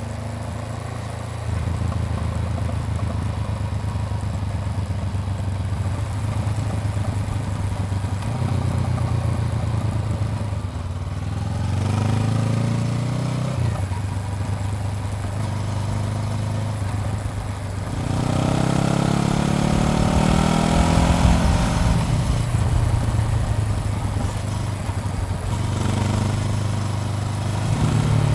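Honda CBR400R's parallel-twin engine running under way, over steady wind noise. The engine note climbs as the bike accelerates about twelve seconds in, and again, more strongly, from about eighteen seconds in.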